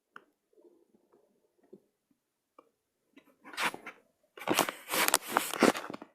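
Scratchy rubbing on paper, as of drawing or colouring strokes: a short stretch of scratching about three seconds in, then a longer, louder run of it to the end.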